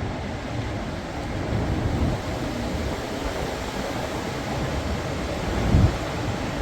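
Strong storm wind rushing steadily, with a low rumble of gusts buffeting the microphone and a brief louder gust near the end.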